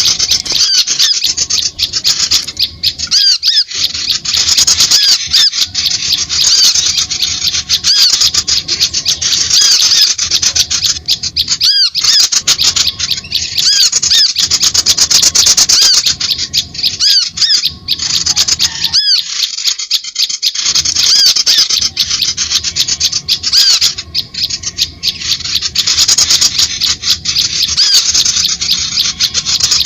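Bird-lure recording of small songbirds calling: a dense, loud run of quick high chirps and chattering notes with only short pauses, the kind of call played to draw wild birds in.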